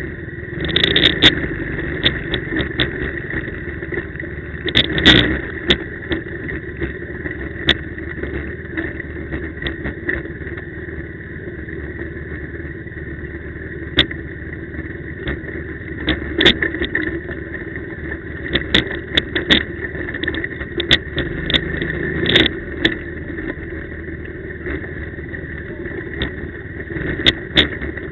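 Quad (ATV) engine running while riding, with frequent short knocks and rattles over it.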